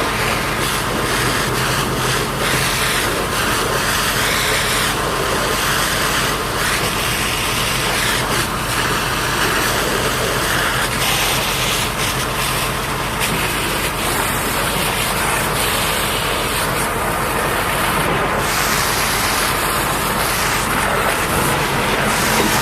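Loud, steady hiss of a high-pressure water spray washing heavy equipment, with a diesel engine running underneath.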